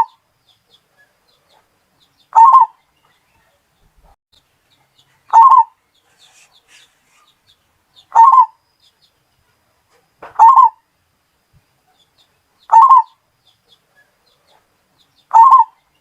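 Zebra dove (perkutut, Bali strain) cooing: a short cooing phrase of about half a second, repeated about every two and a half seconds, six times.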